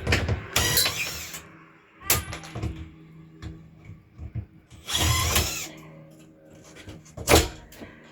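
Interior demolition of a ceiling: loud, irregular crashes and scraping as ceiling material is pried and torn down, with a strong jolt about seven seconds in. A faint low hum runs between the crashes.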